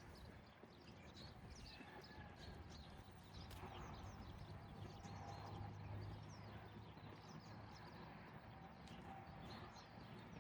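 Faint outdoor morning ambience: small birds chirping, with a low hum of distant traffic that swells a little midway.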